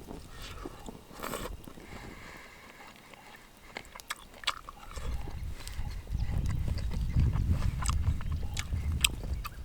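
A person eating a spoonful of stew, chewing close to the microphone with many sharp little clicks, getting louder about halfway through.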